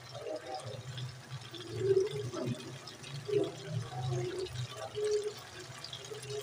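Chopped tomatoes frying down in oil and their own juice in a karahi, bubbling with irregular pops over a low steady hum.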